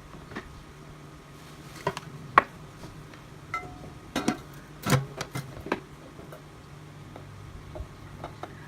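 Kitchen utensils and dishes being handled: a string of sharp clicks and knocks, a few ringing briefly like metal or glass, busiest in the middle, over a low steady hum.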